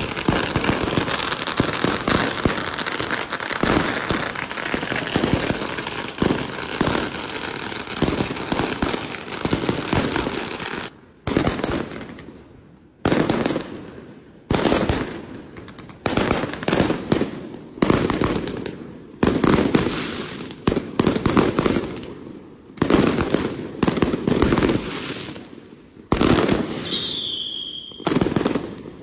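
Strings of firecrackers going off: a dense, unbroken crackle of rapid bangs for about the first ten seconds, then separate bursts of rapid bangs with short gaps between them. Near the end a brief high whistling tone sounds over the bangs.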